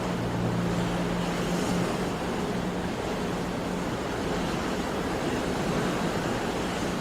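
Sea waves washing steadily in a continuous rush of surf, with a faint low hum in the first three seconds.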